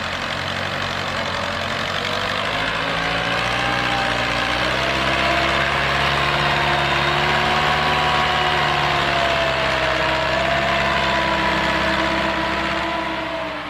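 Massey Ferguson 265 tractor's three-cylinder diesel engine running steadily with a slightly wavering pitch.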